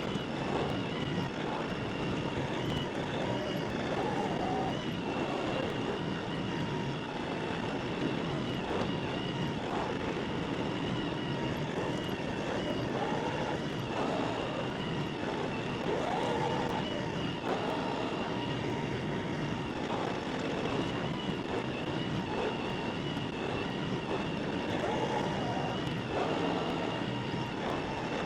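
LS XR315 compact tractor's diesel engine running steadily while working, with a thin high whine held over it throughout.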